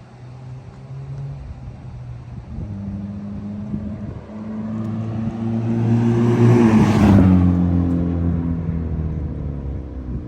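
2012 Honda Civic coupe's 1.8-litre four-cylinder driving past at a steady engine speed, its exhaust note growing louder to a peak about seven seconds in, dropping in pitch as it passes, then fading away.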